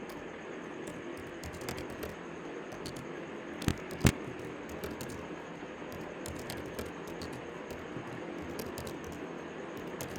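Computer keyboard keys clicking as code is typed: scattered light taps over a steady hiss, with two sharper clicks about four seconds in.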